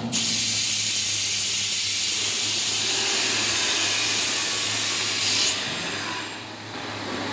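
Loud, steady hiss of air escaping, over the steady hum of machinery. The hiss drops away about five and a half seconds in, and the hum carries on.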